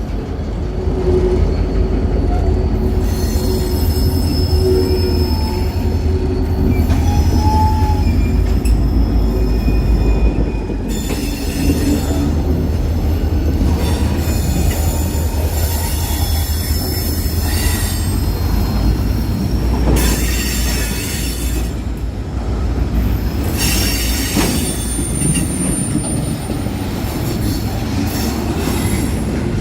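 Slow freight train rolling past, its cars giving a steady low rumble, with thin high-pitched wheel squeals coming and going.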